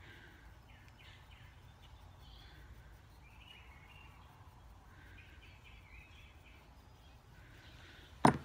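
Faint bird chirps in the background and one sharp knock near the end.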